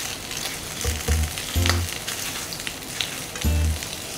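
Cornstarch-coated chicken wings sizzling as they pan-fry in oil in a nonstick frying pan, with a few clicks as chopsticks turn them.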